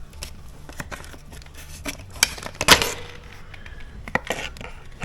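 Clicks, knocks and light clatter of small parts and tools being handled, with the loudest knocks a little past two seconds in and just before three seconds.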